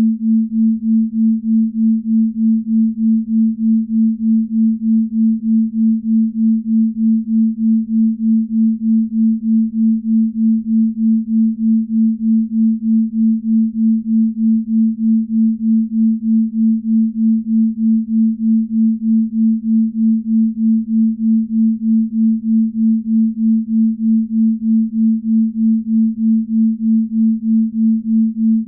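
Binaural-beat tone: a low, pure, steady sine tone that swells and fades evenly about two and a half times a second, the beating of two slightly detuned tones.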